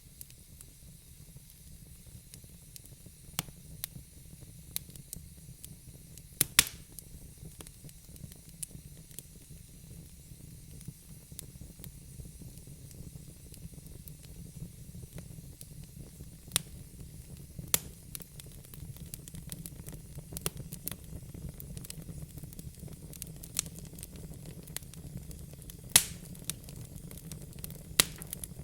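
Wood fire burning in a fireplace: a low steady rumble of flames with irregular sharp crackles and pops, a few of them louder.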